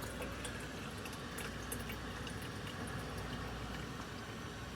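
Water steadily trickling and splashing faintly as it is poured into the water tank of an Adamson A30 countertop dishwasher, with a few light ticks.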